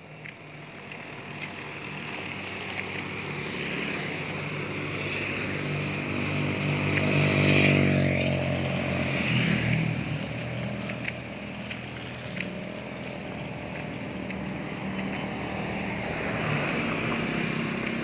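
A motor vehicle engine approaches and passes close by. It is loudest about seven to eight seconds in, and its pitch drops as it goes past. Engine noise from traffic carries on afterwards.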